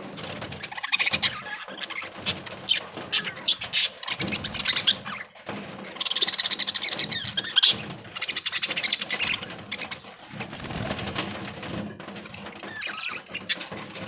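A flock of budgerigars chattering and chirping, in dense, irregular high calls that grow loudest and busiest midway.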